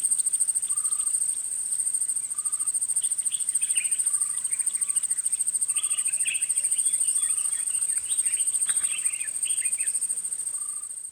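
Nature ambience of insects trilling steadily at a high pitch, with a short lower call repeating about once a second and birds chirping from about three seconds in. It starts to fade out near the end.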